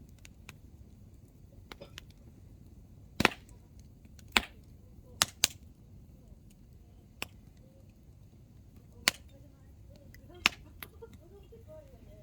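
Hardwood campfire burning with a low steady rush, split by sharp pops and cracks from the firewood bursting. There are about eight pops, the loudest clustered a few seconds in and a last pair near the end.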